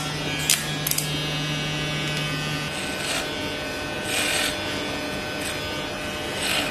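Gamma+ Golden Gun cordless hair clipper, a 10,000 rpm machine, running with a steady hum. Its blade makes several short rasping passes as it cuts hair.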